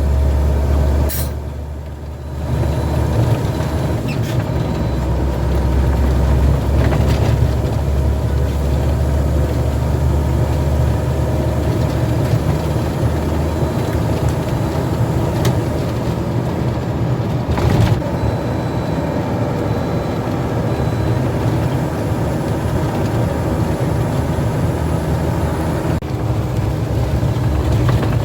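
Heavy truck engine running on the road with a steady low drone. The drone dips briefly about two seconds in, and a few short sharp clicks sound over it.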